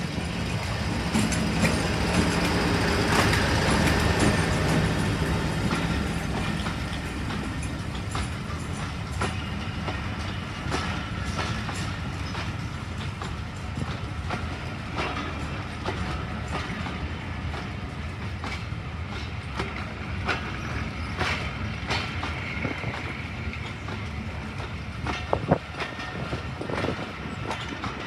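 Diesel locomotive and train passing. The engine's hum is loudest in the first few seconds, then fades into a steady rumble of wheels clicking over rail joints, with a sharp knock near the end.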